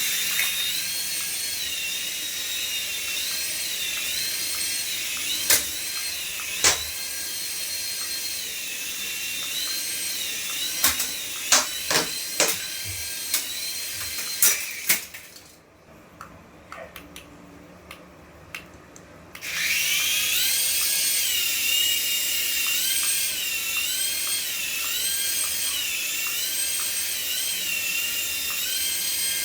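Small electric motor of a remote-control toy whining at high pitch, its pitch wavering up and down in a regular pattern, with a run of sharp clicks. It cuts out about halfway through for about four seconds, then starts again.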